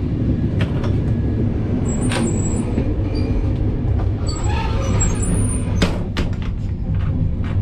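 Running noise of an express passenger train in motion, heard inside the coach: a steady low rumble with scattered sharp clicks and knocks.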